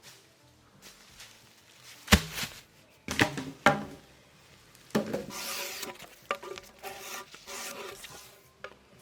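Wood being worked by hand: a few sharp knocks of wood on wood, then longer rasping, rubbing strokes on wood.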